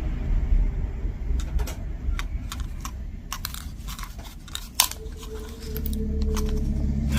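Small scattered clicks and taps of costume jewelry pieces being handled and knocked together, with one sharper click near the middle. A low rumble rises underneath in the last couple of seconds.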